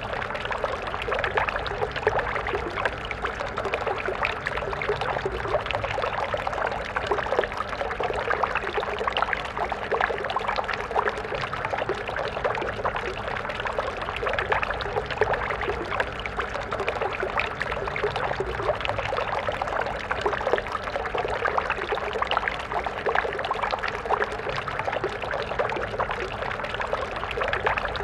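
Stream water flowing steadily, a dense continuous splashing and gurgling with no pause or change.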